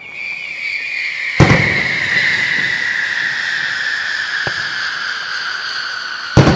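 Fireworks display: a long high whistle that slowly falls in pitch, cut through by two loud shell bursts, one about a second and a half in and one near the end, with a small crack in between.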